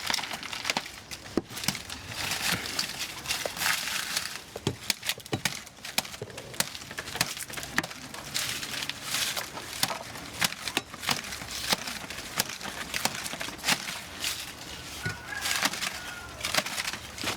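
Irregular crackling, snapping and rustling of a banana plant's stem and leaves as the cut trunk is pushed over and worked loose.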